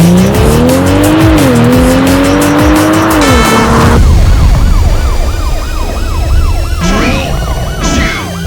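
Turbocharged inline-six car engine at full-throttle acceleration, the revs climbing, dropping once for a quick upshift about a second in, climbing again, then falling away about three seconds in. After that, electronic music with a repeating wobbling tone.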